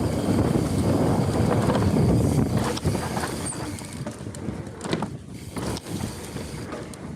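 Mountain bike on a dirt trail: a heavy rumble of tyres and wind buffeting the microphone, easing after about three seconds. A few rattling knocks from the bike come over bumps about four to five seconds in.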